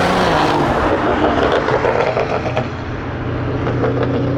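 Car engines running loudly, with a rush of noise that eases off about halfway through, then a steady low engine hum.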